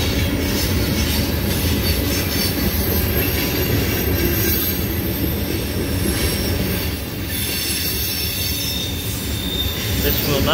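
Loaded ethanol tank cars rolling past over a grade crossing: a steady rumble of steel wheels on rail, with faint high-pitched wheel squeal at times.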